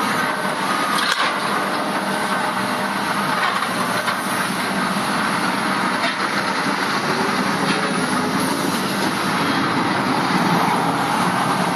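Heavy demolition excavator at work, a steady, dense mechanical din without separate distinct blows.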